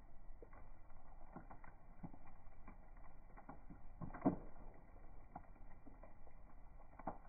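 Bonfire crackling: scattered irregular pops and snaps, with one louder crack about four seconds in.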